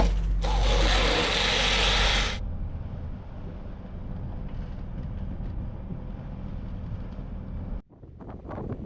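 Countertop blender running a smoothie: a loud churning whir for about two seconds, then a lower steady motor hum. About eight seconds in it cuts off sharply to wind noise on the microphone.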